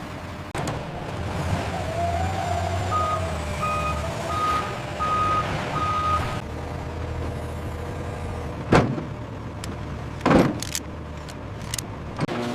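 Heavy machinery running with a low steady hum, and a reversing alarm sounding five short evenly spaced beeps about three seconds in. Two loud sharp metallic clanks follow near the end.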